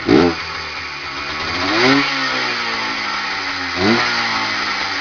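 Sachs 125 two-stroke engine on a DKW dirt bike, fitted with a Keihin carburettor, idling and revved three times: a sharp throttle blip at the start (the loudest), a slower rev that climbs and falls about 2 s in, and another quick blip about 4 s in. The engine is still warming up.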